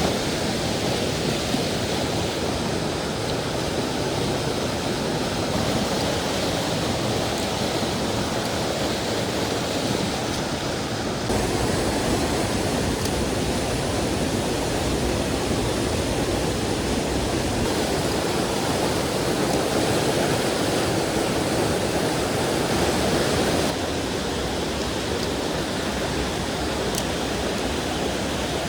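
Mountain stream water flowing over rocks: a steady, dense rush with no breaks. The level steps up slightly about 11 seconds in and down again about 24 seconds in.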